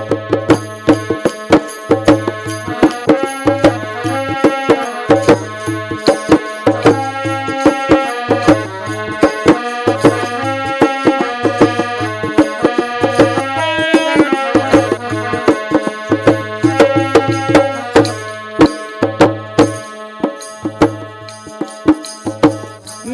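Instrumental interlude of a devotional folk song: a melody instrument plays a quick tune over hand-drum percussion, with a deep beat repeating about once a second.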